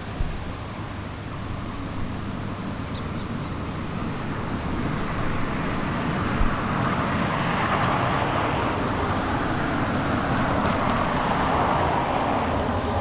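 Road traffic: a car going by, its tyre noise swelling from about five seconds in and easing off near the end, over a steady low rumble.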